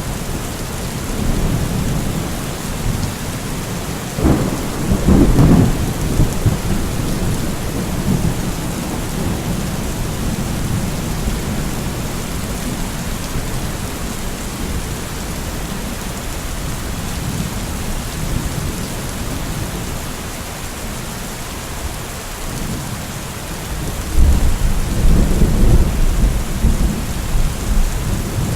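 Steady heavy rain with thunder rumbling, a rumble swelling about four seconds in and another starting near the end.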